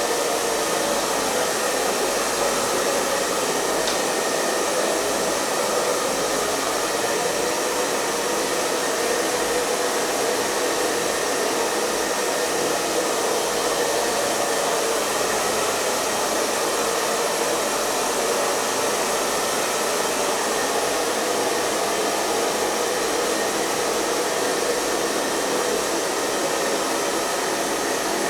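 Hair dryer blowing steadily at a constant speed: an even, unbroken rush of air and motor whir.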